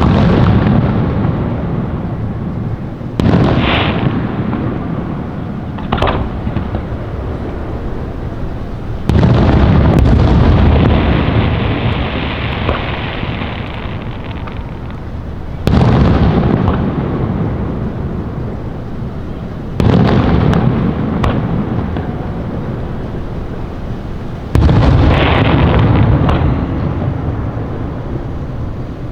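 Fireworks exploding: about six loud booms a few seconds apart, each trailing off in a long rumble and crackle.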